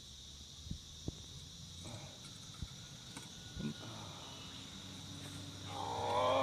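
Steady high chirring of insects, with a few faint knocks, and near the end a loud, long wavering call.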